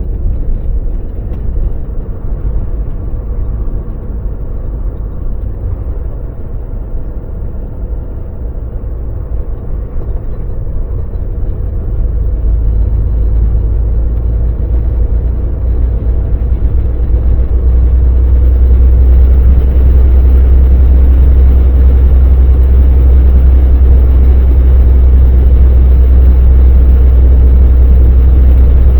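Volvo VNL semi truck on the move: a steady, heavy low rumble of engine and road noise. It grows louder about halfway through and again a few seconds later, then holds steady.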